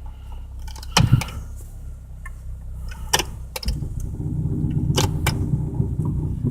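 A 1991 Toyota Corolla's 1.6-litre four-cylinder engine idling, with a low exhaust rumble that becomes louder and more pulsing a little past halfway through; the owner means to have the rumble checked. A few sharp clicks sound over it.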